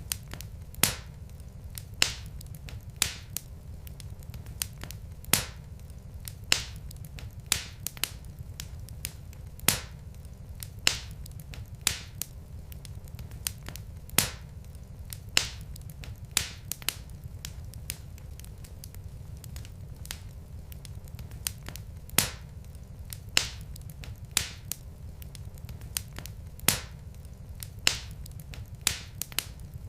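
Log fire in a fireplace crackling: sharp, irregular pops about once a second, sometimes two close together, over a steady low rumble.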